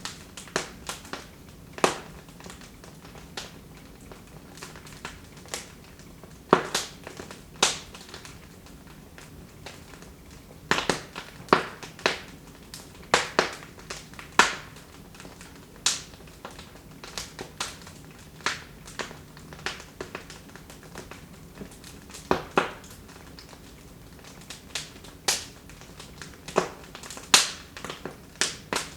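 Wood fire burning in a fireplace, crackling with sharp, irregular pops, some single and some in quick clusters, over a faint steady hiss.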